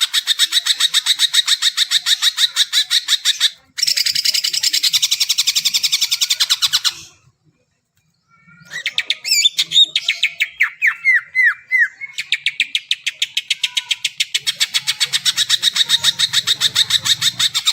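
Cucak ijo (green leafbird) singing: a fast run of rapidly repeated high notes. The song stops abruptly a little past the middle for about a second, then returns as varied chirps and falling slurs before the fast repeated run resumes.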